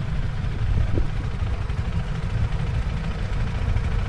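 Motorcycle engine running steadily under a heavy low rumble.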